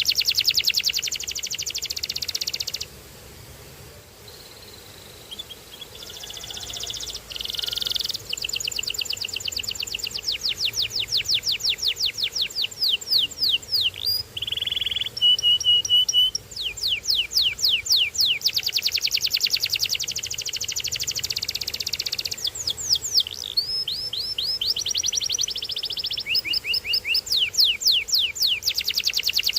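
Domestic canary singing: long, fast trills of rapidly repeated down-slurred notes, changing from one roll to the next and broken by a few short held notes, with a quieter pause of about three seconds near the start.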